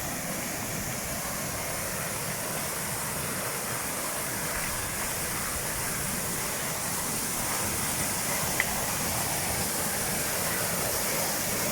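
Waterfall rushing, a steady, even roar of falling water. A single sharp click is heard a little over eight seconds in.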